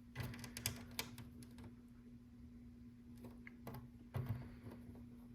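Small plastic LEGO pieces clicking and tapping as they are handled and pressed onto the board: a quick flurry of light clicks in the first second, then a few more near the end, over a faint steady hum.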